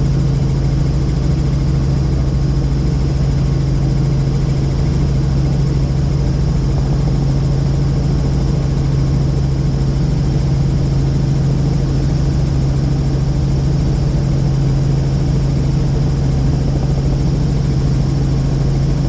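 Helicopter in flight heard from inside the cabin: a loud, steady drone of turbine and rotors over a deep, constant hum.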